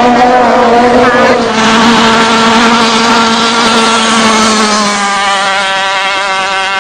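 Racing motorboat engine running hard at high revs with a steady, high-pitched note that eases slightly lower about two-thirds of the way in.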